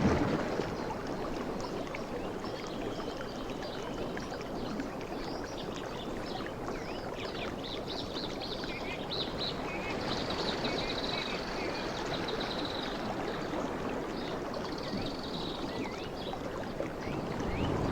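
Sea waves washing in, a continuous rushing wash that swells at the start and again near the end. Faint high chirps come and go in the middle.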